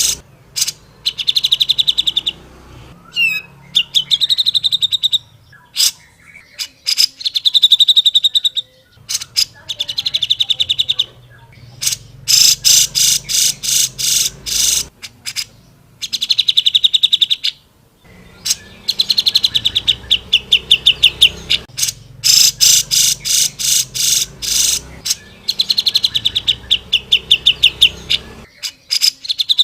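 Cucak jenggot (grey-cheeked bulbul) singing loud, fast rattling runs of harsh repeated notes, each run lasting a second or two, over and over with short gaps. A low steady hum lies underneath.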